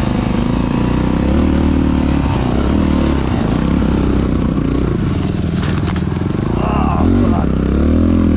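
Dirt bike engine running, its pitch rising and falling as it revs, loudest near the end.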